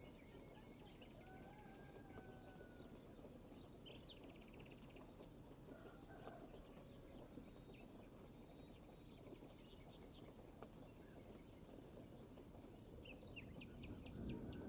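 Faint birdsong: several birds whistling and giving short rapid trills over a steady low outdoor background hiss.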